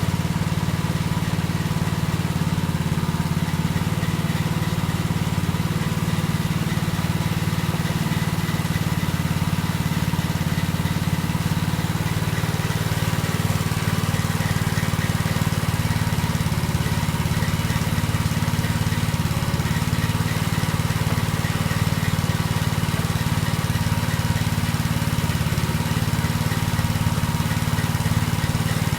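A small engine or motor running steadily at an even, low hum.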